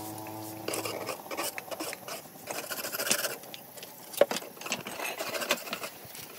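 Scattered light clicks, taps and scrapes of hand masonry work: a trowel and pieces of natural stone being handled during stone cladding. A steady hum stops about a second in.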